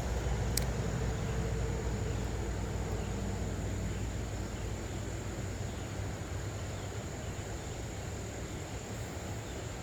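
Steady outdoor creek-side ambience: insects droning in one unbroken high note over a low, even rush of noise that eases off a little past the middle, with one faint click near the start.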